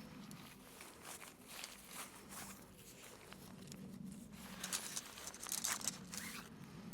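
Quiet, irregular rustling and crinkling of a one-man backpacking tent's fabric and poles being handled while it is pitched, with light scuffing on dry twigs and leaf litter.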